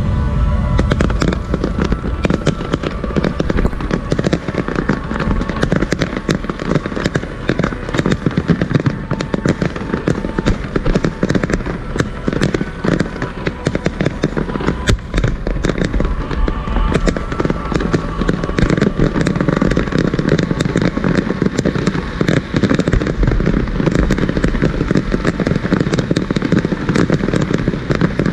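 Fireworks display: a dense, continuous barrage of bangs and crackles with a deep low rumble underneath.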